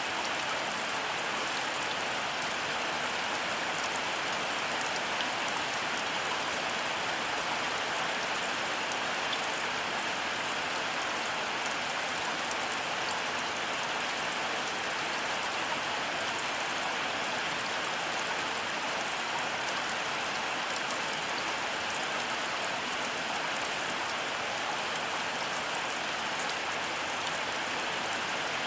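Heavy rain falling steadily, a dense even hiss with individual drops pattering on surfaces and no thunder.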